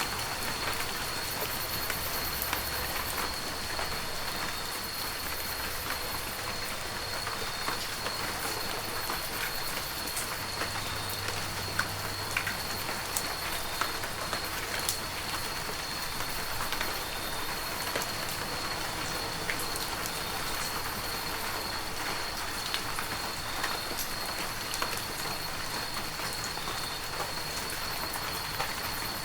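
Steady heavy rain falling, with scattered sharp drops striking close by. A faint high steady tone runs through it.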